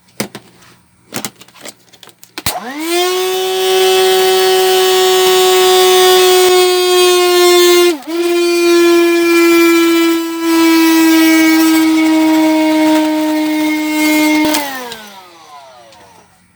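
A small electric motor starts with a few clicks, spins up with a quickly rising whine, and runs steadily with a hiss for about twelve seconds. Its pitch dips once briefly near the middle, then it winds down with a falling whine.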